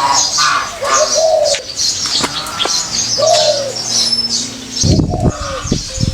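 Small birds chirping, with a dove giving two arching coos. A few low thuds come about five seconds in.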